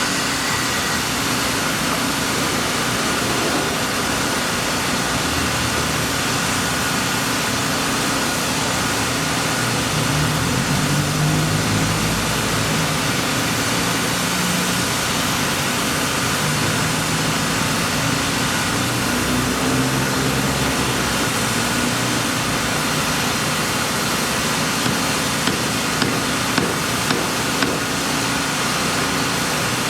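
Steady road traffic: vehicle engines running and passing, rising and fading in turn, with a few light clicks near the end.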